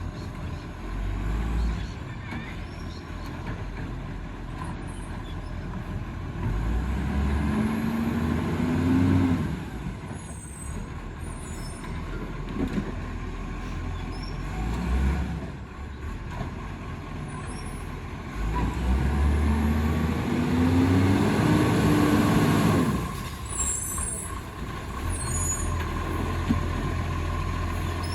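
Diesel garbage truck engine running, revving up twice with a rising then falling pitch. Short high hisses are heard between the revs.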